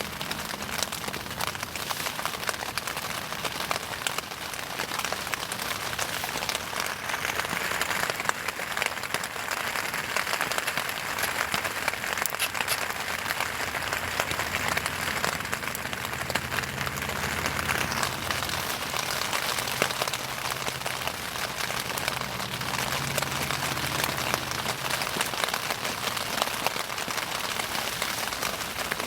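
Wood bonfire crackling and popping: a steady hiss of burning with dense, irregular snaps. A faint low hum comes in for about ten seconds in the middle.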